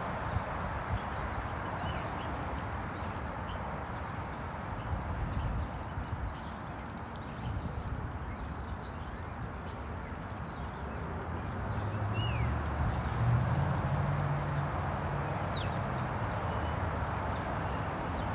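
Small birds chirping with short high calls and splashing as they bathe, over a steady rushing hiss. A low rumble rises about twelve seconds in and fades a few seconds later.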